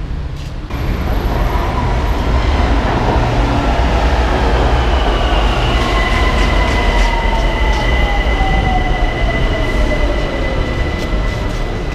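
BTS Skytrain electric train in the station: loud running rumble with a motor whine that falls slowly in pitch over several seconds as a train slows, joined partway through by a steady high whine.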